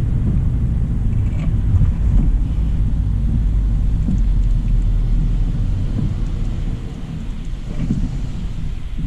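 A 2025 Hyundai Elantra SEL driving on a wet road: steady low rumble of tyre and road noise, with rain, easing a little about two-thirds of the way through.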